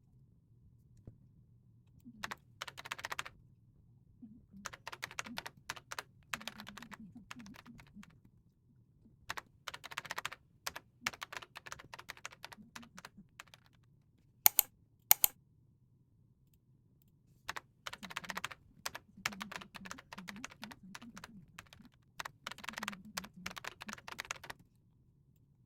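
Typing on a computer keyboard in bursts of a few seconds with short pauses between, and two sharper, louder key strikes about halfway through, over a faint steady low hum.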